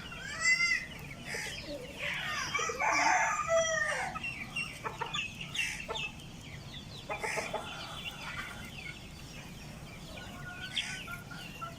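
Chickens: chicks peeping in many short high chirps, with a hen clucking and one louder, drawn-out call about two and a half seconds in.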